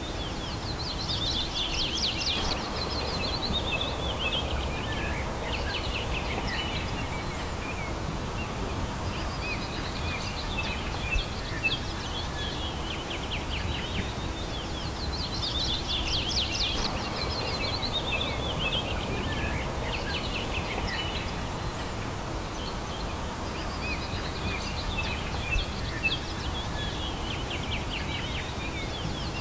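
Songbird singing a repeated phrase: a rapid trill that starts high and falls in pitch over two to three seconds, coming back every several seconds. Under it runs a steady low rumble of outdoor background noise, with a couple of brief clicks.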